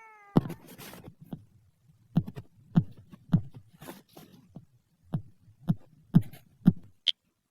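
A series of about eight short, low thuds at uneven spacing, followed near the end by a brief high beep.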